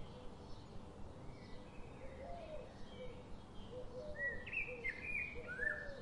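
Birds chirping: short high chirps that get louder about four seconds in, with lower, repeated call notes among them.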